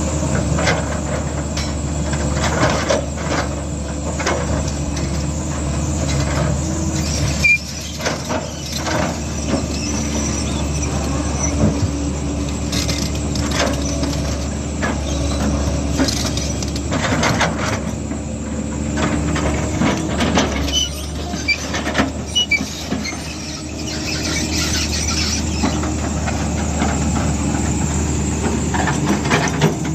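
Heavy diesel earthmoving machine running steadily, with irregular metallic clanks and knocks over the engine note.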